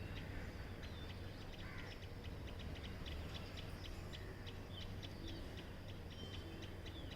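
Faint, rapid series of short high chirps from a common tailorbird, about four a second with a few brief whistled notes, over a low steady background hum.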